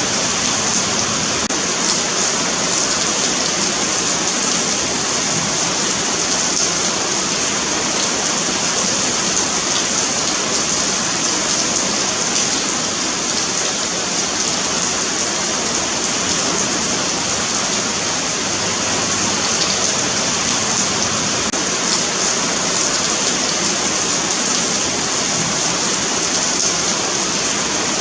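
Steady rain falling on a pavement: a continuous even hiss with fine patter of drops hitting the hard surface.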